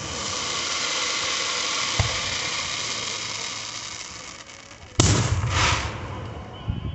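Consumer fireworks going off: a hissing, crackling spray that runs about four seconds with a small pop partway, then a sharp bang about five seconds in, followed quickly by a second burst.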